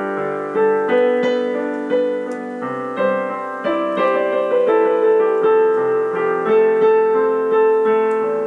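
Background music: piano notes played at a moderate pace.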